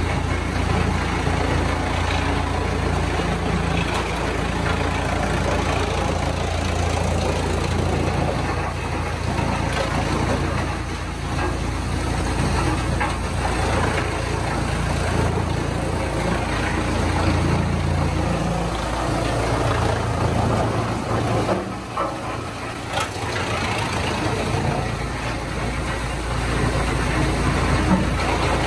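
A large engine running steadily, with a few sharp knocks and clatter.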